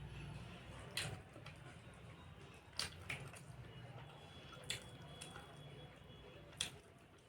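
Close-up eating sounds of fish curry and rice: wet, squishy chewing with about five sharp mouth clicks spread across the stretch.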